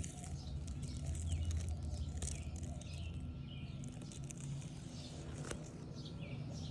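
Outdoor garden ambience: small birds chirping now and then over a low steady rumble, with a few light clicks or rustles.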